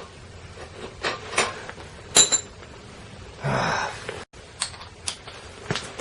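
Scattered knocks and clicks of hand tools and metal exhaust parts being handled. The loudest, about two seconds in, is a sharp metallic clink that rings briefly. A short breathy rush comes around three and a half seconds.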